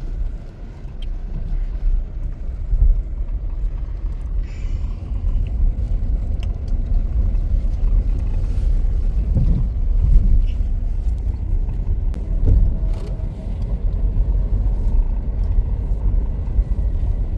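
A steady low rumble with faint scattered knocks.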